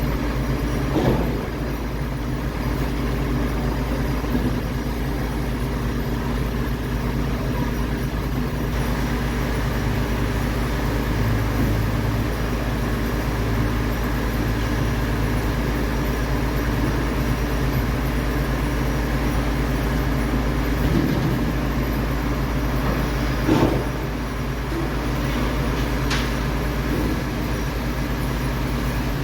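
MAN TGS 26.320 garbage truck's diesel engine running steadily, with a few brief knocks and clanks along the way.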